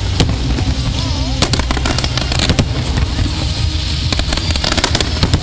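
Aerial fireworks going off: repeated sharp bangs and crackles in quick clusters, over a steady low rumble.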